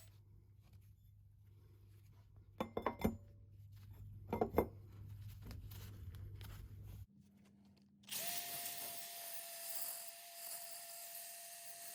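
A few short knocks and scrapes of handling in a workshop, then about eight seconds in a small electric power tool switches on and runs steadily, a constant whine over a hiss.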